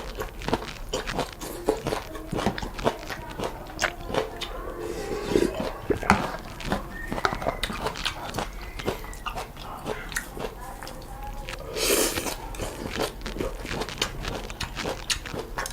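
Close-miked eating of noodles and soup: wet chewing and lip smacks with many small mouth clicks, and a short loud slurp about three-quarters of the way through.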